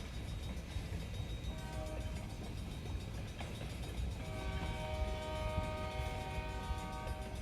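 Locomotive horn sounding a short blast and then, about four seconds in, a long held blast, a chord of several steady tones. Under it runs a continuous low rumble.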